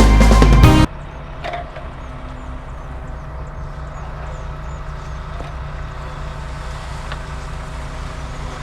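Music cuts off about a second in, leaving an engine running steadily with a low, even hum.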